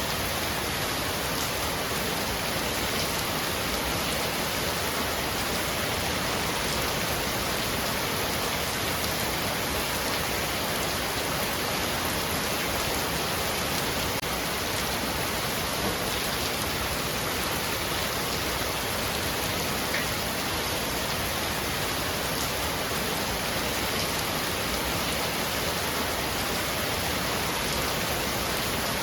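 Heavy rain falling steadily on a roof, a dense even hiss with occasional faint drop ticks.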